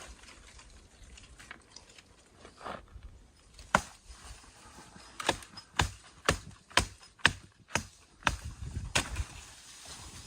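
Sharp knocks of wood being struck during shelter building: a single hit about four seconds in, then a run of about eight strikes at roughly two a second.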